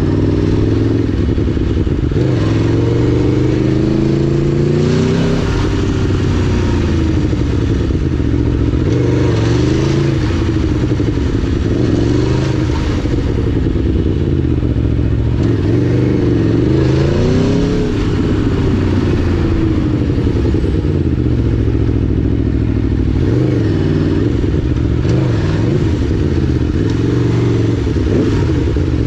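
2011 Aprilia Tuono V4 1000's V4 engine running under way, its pitch rising and falling again and again as the throttle is opened and closed.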